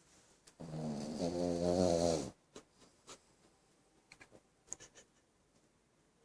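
French bulldog snoring: one long snore lasting nearly two seconds, starting a little over half a second in, followed by a few faint clicks.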